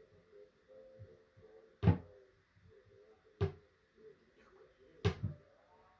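Three sharp thuds about a second and a half apart, over faint low tones.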